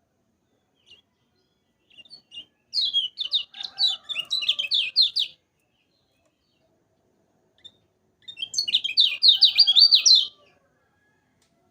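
Kecial kuning, a white-eye, singing two loud bursts of rapid, high chattering notes, each about three seconds long, a few seconds apart.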